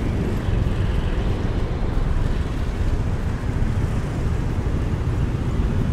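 Steady wind rumble on the microphone mixed with motorcycle and street-traffic noise, recorded from the back of a moving motorcycle.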